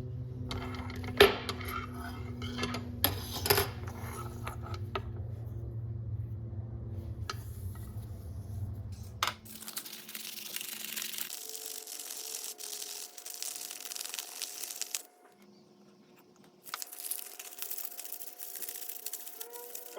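Small metal parts of an antique leather awl clinking and tapping against a hard work surface, several sharp clinks in the first few seconds. About halfway through this gives way to a steady scratchy hiss of scrubbing, broken by a brief silence.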